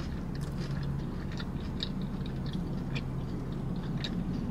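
Close-up chewing of a fried, breaded Nashville hot mozzarella stick with the mouth closed, giving soft, irregular wet mouth clicks. A steady low hum runs underneath.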